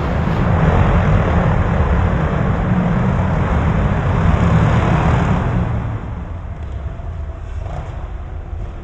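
Dirt bike riding noise, engine and rush of air mixed, loud for about the first five seconds and then easing off.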